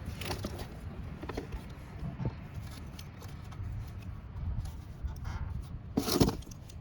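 Scraping, rubbing and small clicks of hand-work on a coolant hose as it is worked loose from its fitting, with a louder scrape about six seconds in.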